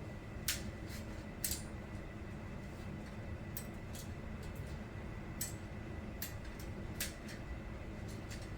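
Scattered light clicks and knocks, about seven, irregularly spaced, over a steady low hum and a faint high tone.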